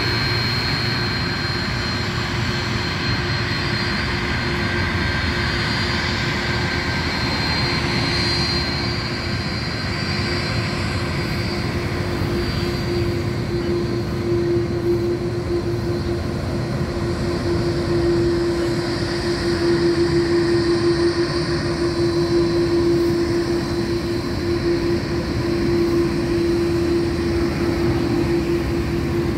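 Steady engine drone with a constant hum that grows a little louder in the second half.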